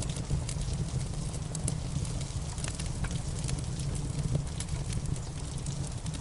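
Wood fire crackling, with scattered sharp pops and snaps over a steady low rumble, and steady rain in the background.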